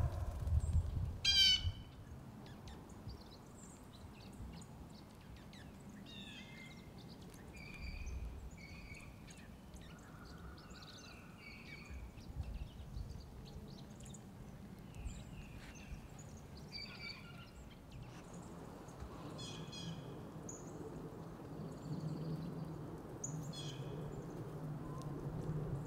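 Wild backyard songbirds chirping and calling in winter, short high notes scattered throughout, with a quick rapid trill about a second in. A low background rumble sits underneath and grows louder in the second half.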